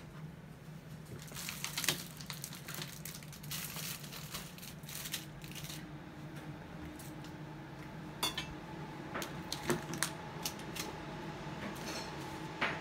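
Scattered light clicks and clinks of hard objects being handled, over a steady low hum.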